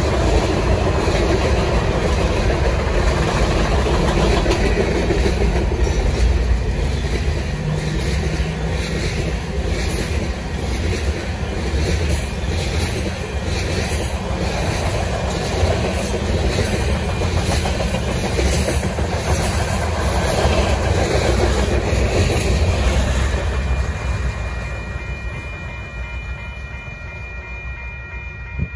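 Freight train cars rolling past a level crossing: a steady rumble with wheel clatter from the boxcars and tank cars. The noise fades near the end as the rear of the train moves away, and a crossing bell's steady ringing comes through.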